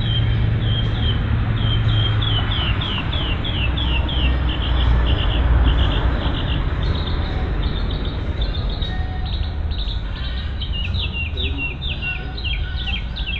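A songbird repeating short downslurred chirps, two or three a second, changing its phrase about halfway through, over a steady low rumble.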